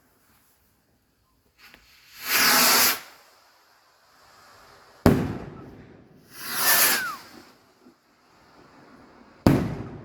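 Fireworks going off close by: two hissing rushes, each under a second long, and two sharp bangs about four seconds apart.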